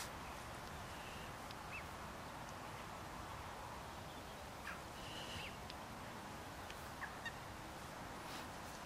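A few short, faint bird calls over a steady background hiss.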